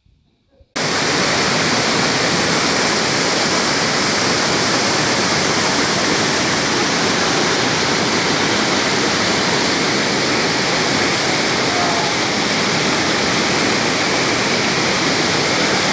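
Loud steady rushing of a waterfall cascading into the canyon, cutting in abruptly under a second in.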